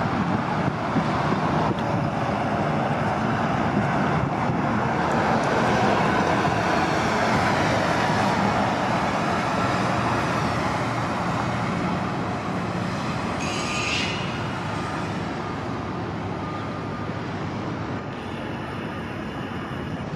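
City transit buses running and pulling through, a steady engine and road noise that swells toward the middle and then eases off, with a brief high hiss about two-thirds of the way in.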